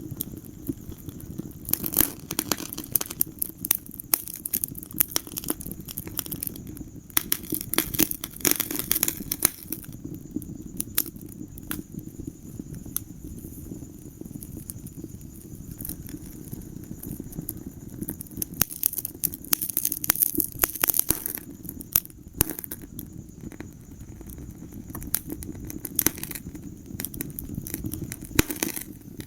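Wood fire crackling in a fireplace: frequent sharp pops and snaps, bunching into denser runs several times, over a low steady rumble of the flames.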